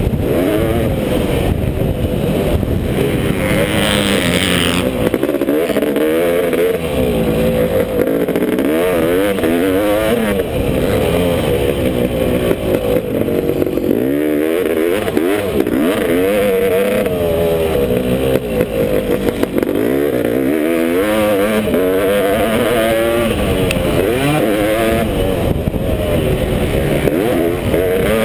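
Single-cylinder two-stroke engine of a Honda CR500 motocross bike in a KTM frame, revving hard and backing off again and again as it is ridden around the track. A brief hiss comes about four seconds in.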